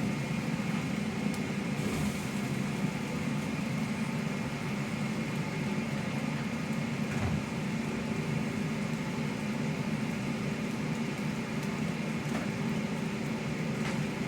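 A steady low motor hum, with a couple of faint knocks.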